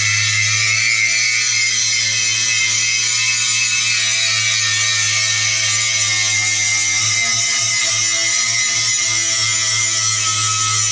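Angle grinder grinding steel: a loud, steady, high-pitched grinding with a constant low hum underneath.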